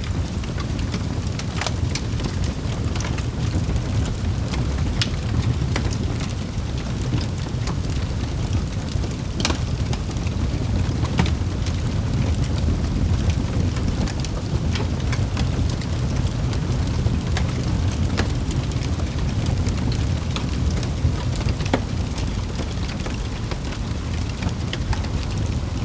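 Wood fire crackling in a fireplace: irregular sharp pops and snaps every second or so over a steady low rumble of the flames.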